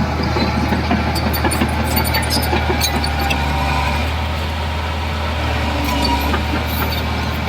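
Heavy diesel engine of earthmoving machinery running steadily with a low drone, with scattered light clicks and clanks.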